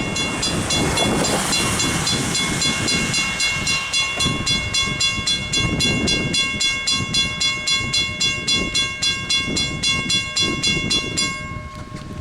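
Great Western 2-10-0 #90 steam locomotive working past, its exhaust beating about four times a second over a low rumble, with several steady high tones held above it. The beats and tones cut off together about a second before the end.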